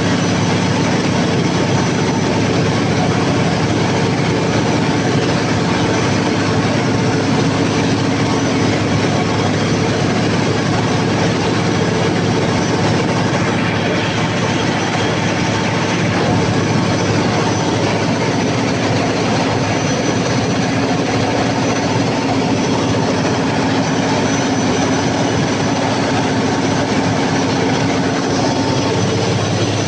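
Cummins KTA50 V16 turbocharged diesel generator set running at constant speed during a load test, a loud, steady drone with a continuous hum that does not change.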